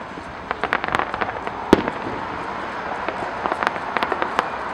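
Aerial fireworks going off: scattered sharp pops and cracks in quick clusters, with one loud bang near the middle.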